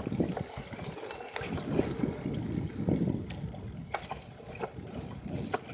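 Bicycle riding noise: wind rumbling on the microphone with irregular rattles and clicks from the bike.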